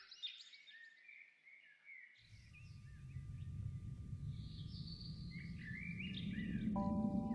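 Songbirds chirping and singing, with a low steady noise coming in about two seconds in and growing louder. Near the end, soft sustained music notes start.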